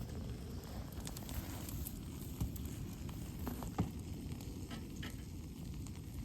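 Wood campfire crackling, with scattered sharp pops over a steady low noise and one louder pop near the middle.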